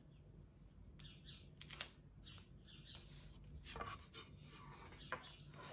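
Near silence, with a small bird faintly chirping a few times and a few soft rustles and taps from the vinyl transfer sheet being handled.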